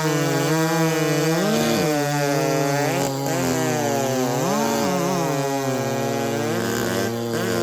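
Big two-stroke racing chainsaws of the 90cc-and-under class running together: one holds a steady pitch while another's engine pitch swings up and down several times.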